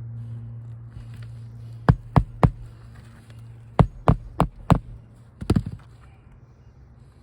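Hammer strikes on a roofing nail through an asphalt shingle: quick sharp blows about three a second, a run of three, then four, then a short cluster. A steady low hum sits under the first few seconds.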